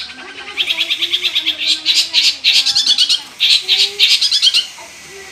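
Long-tailed shrike (cendet) singing in bursts of rapid, chattering repeated notes, high-pitched and loud, fading out shortly before the end.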